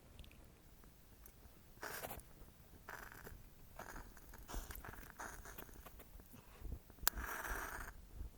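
Faint rustling and handling noises: a few short scuffs, then near the end a sharp click followed by about a second of hiss.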